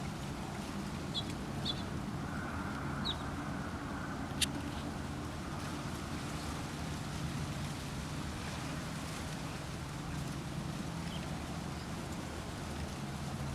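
Outdoor ambience: a steady low rumble, with a few short, high bird chirps in the first three seconds and one sharp click about four seconds in.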